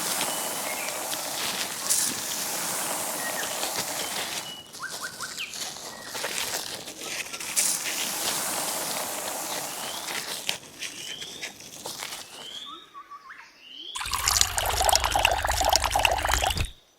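Water pouring and trickling, with short bird chirps partway through. Near the end a louder stretch of water noise comes in with a low steady hum, then cuts off suddenly.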